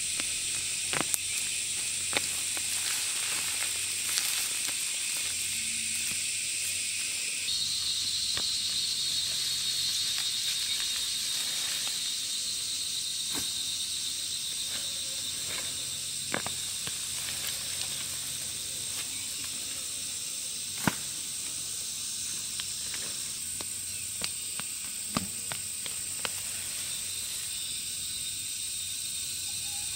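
Insect chorus: a steady, high-pitched shrill of many insects, changing pitch about a third of the way through, with scattered sharp ticks and clicks, one louder about two-thirds of the way in.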